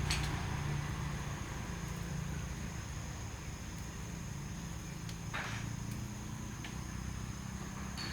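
Motorcycle engine running at low revs, slowly getting quieter, with a few light clicks.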